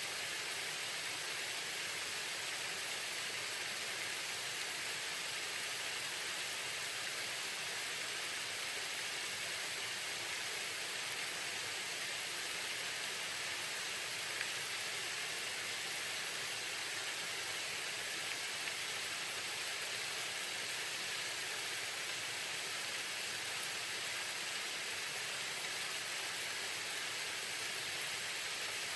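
Small waterfall splashing steadily, an even hiss of falling water.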